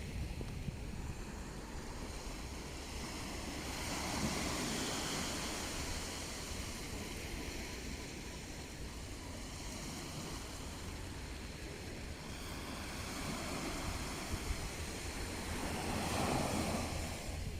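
Sea waves breaking and washing up the shore, the surf swelling about four seconds in and again near the end, with wind rumbling on the microphone.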